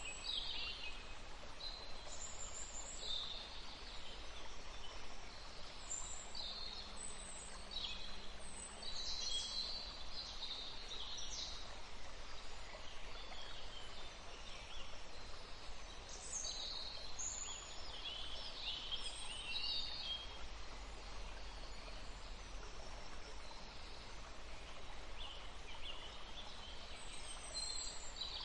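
Forest ambience: small birds chirping in short, high-pitched calls, some in quick runs, scattered throughout over a steady background hiss.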